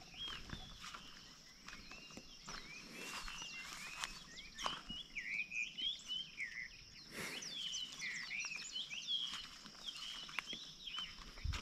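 Birds chirping and singing in quick rising and falling notes, busiest in the middle, with scattered footsteps on grass and dirt and a steady high-pitched tone underneath.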